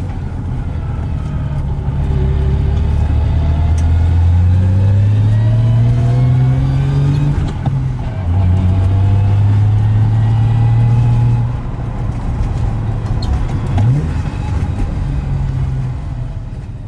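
BMW E30 325i's 2.5-litre straight-six engine and exhaust under hard acceleration: the engine pitch climbs steadily, drops sharply at a gear change about a third of the way in, and climbs again. After a lift-off it runs lower, with a short rev blip near the end.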